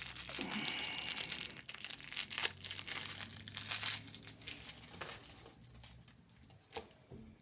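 Packaging wrapping crinkling and rustling in the hands as a boxed diecast model airplane is unwrapped. The rustling grows sparser and quieter over the last couple of seconds.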